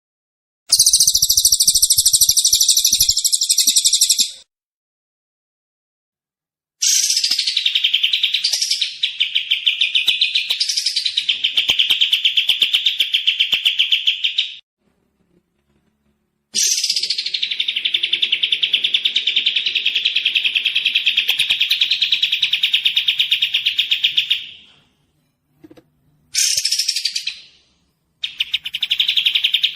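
A songbird sings long, rapid trills in five bouts with sudden silent gaps between them. The first bout is the highest-pitched, and the final two are short.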